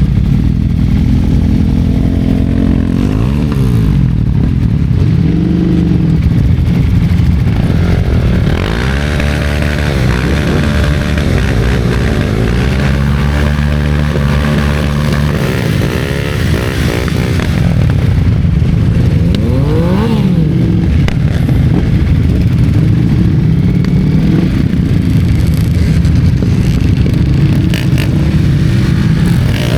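Motorcycle engines running on the road, the pitch repeatedly rising and falling with throttle and gear changes, busiest about a third of the way in and again with a quick rise and fall about two-thirds through. Heavy wind rumble on the microphone runs underneath.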